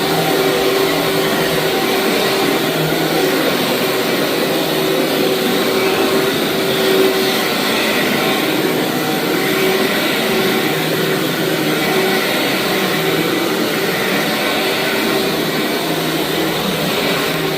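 Vacuum cleaner running steadily, pulling dirt out of a dirty rug.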